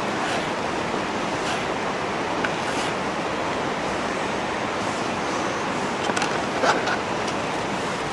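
Wood fire burning in a camp grill: a steady rushing hiss with a few sharp crackles and pops, the loudest a little after six seconds in.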